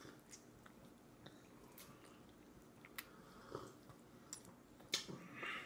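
A baby chewing and sucking on orange segments: faint wet mouth clicks and smacks, with a sharper click about three seconds in and the loudest about five seconds in.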